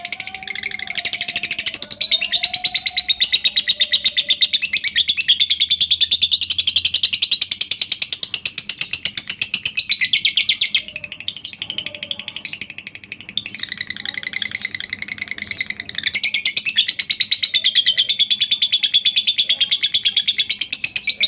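Lovebird singing a long ngekek: a very fast, high-pitched chattering trill that goes on almost without a break. It turns quieter and thinner for a few seconds past the middle, then comes back at full strength.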